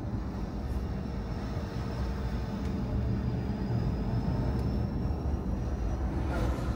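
Car driving: a steady low rumble of engine and tyres on the road, with a faint thin whine that fades out, and a short hiss about six seconds in.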